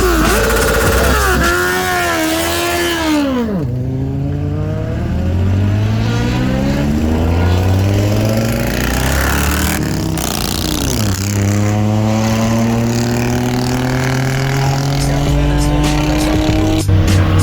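Superbike engine revved up and down, then accelerating hard through the gears: the pitch climbs steadily and drops sharply at upshifts about 3.5 and 11 seconds in.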